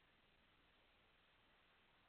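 Near silence: faint steady hiss of a camera microphone.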